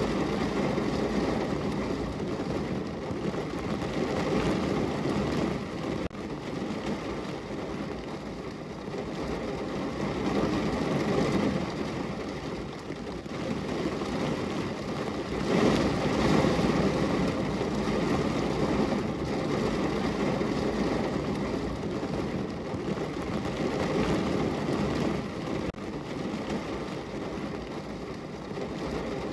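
Steady rain on a window: an even rush of noise, strongest in the low-middle range, swelling briefly about halfway through before easing back.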